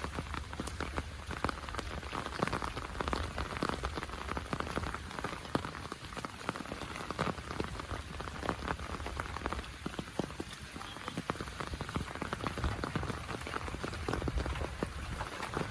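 Heavy rain falling steadily: a dense patter of countless small drop impacts over a constant hiss.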